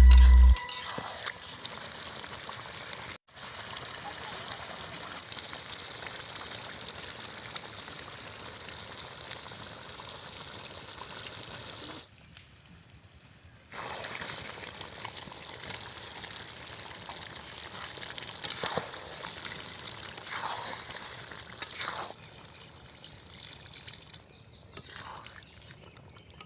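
Chicken curry cooking in a pot: a steady sizzling, bubbling hiss that cuts out briefly near the middle, with a few short scraping strokes in the second half.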